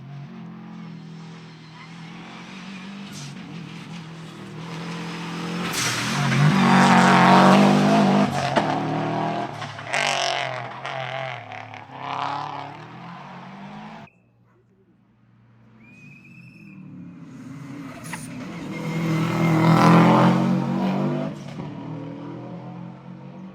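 Subaru Legacy rally car's boxer engine at full throttle as the car passes close by on a special stage, pitch rising and falling through gear changes. The sound swells to a loud peak, cuts off suddenly about halfway through, then a second pass builds to another loud peak and fades.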